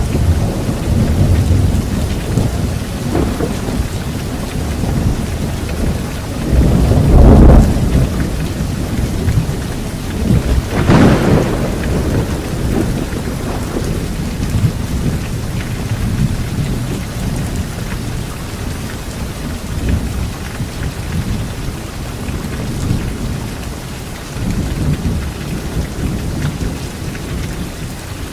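Rain falling steadily on leaves, with thunder rumbling. The rumbling swells loudest twice, around a quarter and a third of the way in, then dies down, leaving mostly rain near the end.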